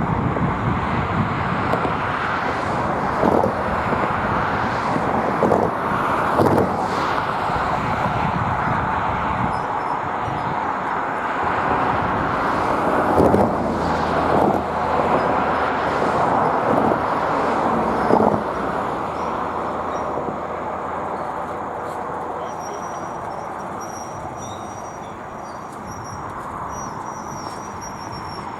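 Train rolling across a road crossing with a steady rumble and several sharp knocks of wheels over the rail joints; it fades away over the second half.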